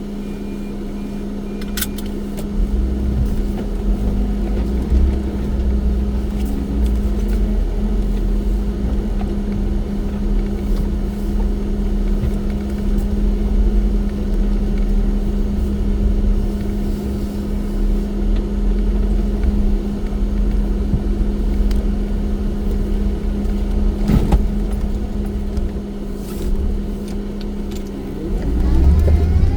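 Off-road vehicle engine running at steady revs while driving, with a strong low rumble, a sharp knock about three-quarters of the way through and a heavier surge of rumble near the end.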